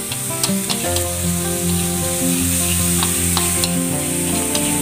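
Minced lemongrass, garlic, shallot and chili sizzling steadily in oil in a wok as they are stirred with chopsticks, with scattered light clicks of the chopsticks against the pan. Background music with sustained notes plays underneath.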